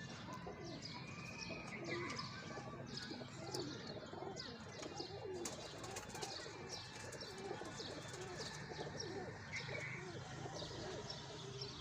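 Pigeons cooing, mixed with a constant chatter of quick, high chirps from birds, over a low steady hum.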